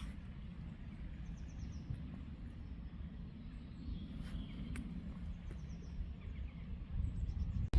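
Outdoor ambience: a low steady rumble with a few faint, brief bird chirps. Just before the end it cuts abruptly to a louder low rumble.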